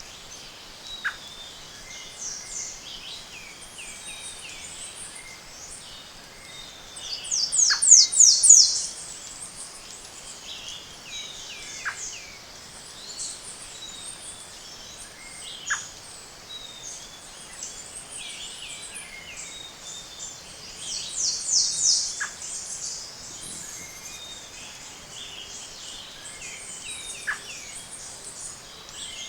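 Tropical forest dawn chorus, several bird species calling over one another in high, thin notes. Twice, about a quarter of the way in and again about three-quarters through, one bird gives a loud quick series of high descending notes, and short sharp snaps come every few seconds.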